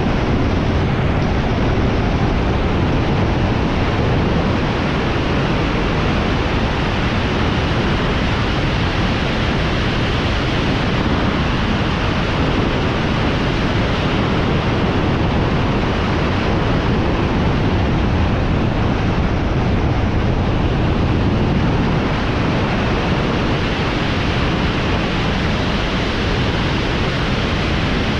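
Steady loud rushing noise with no distinct tones or events: wind on the microphone while moving fast.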